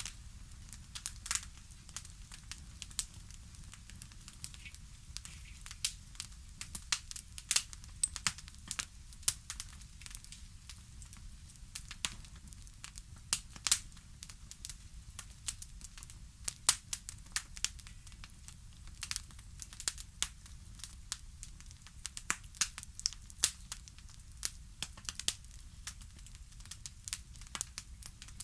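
Fireplace wood fire crackling: a steady stream of irregular sharp pops and snaps over a low rumble of flame.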